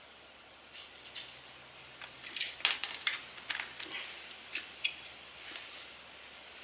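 Metal tools and bolts clinking and rattling as they are handled, with a quick run of sharp clicks about two seconds in and a few scattered ones after.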